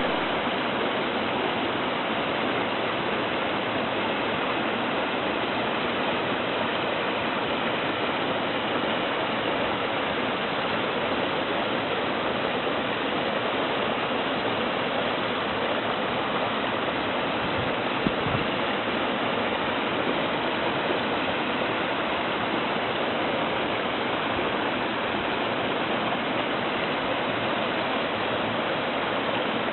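Waterfall rushing steadily, an even, unbroken wash of falling water, with one brief faint knock about eighteen seconds in.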